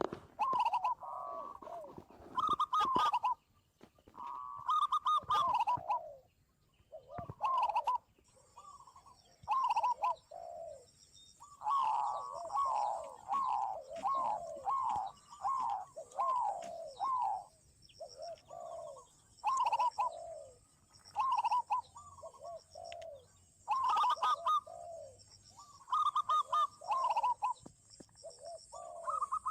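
Zebra doves and spotted doves cooing, many overlapping calls made of quick series of short, falling notes. A steady high hiss comes in about eight seconds in.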